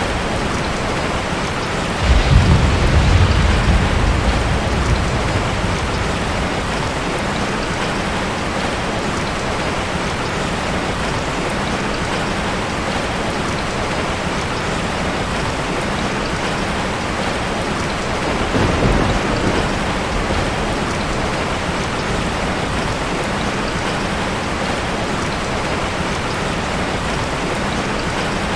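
Steady, even rushing of water, with a deep low rumble starting about two seconds in and lasting some three seconds, and a shorter, weaker rumble about two-thirds of the way through.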